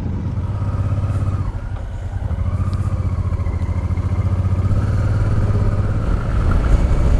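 Honda Deauville's V-twin engine running as the motorcycle rides along, easing off briefly about a second and a half in, then pulling steadily again.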